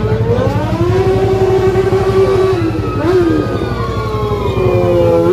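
Motorcycle engine revving, its pitch rising and falling, over the steady low running of engines.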